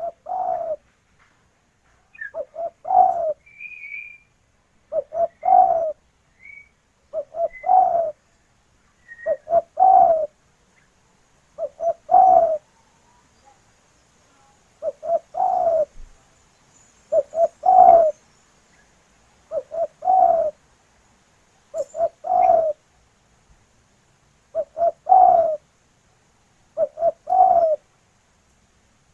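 Spotted dove (tekukur) cooing: the same phrase of a few short notes ending in a longer coo, repeated about a dozen times at roughly two-second intervals. Faint high chirps from another small bird come in between the phrases during the first ten seconds.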